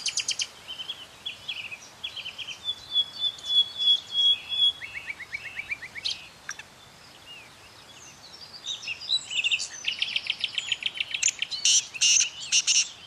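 Many captive birds chirping and calling, with fast runs of high repeated notes and trills, one longer steady whistle about three to four seconds in, and a burst of loud, dense chattering near the end.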